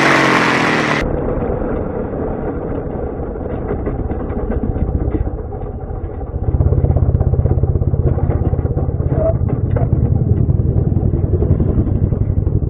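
Classic racing motorcycle engine running, with rapid firing pulses. About a second in, the sound cuts from a bright, loud recording to a duller one, and the engine grows louder about six and a half seconds in.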